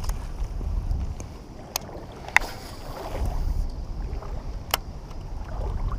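Low rumble and water noise around a kayak, with three sharp clicks or knocks: two about two seconds in, one near five seconds.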